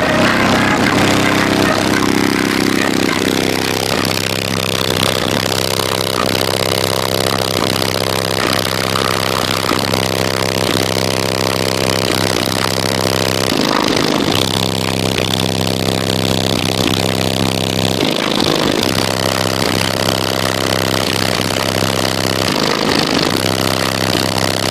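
A vehicle engine idling steadily, with a few short dips in its note partway through.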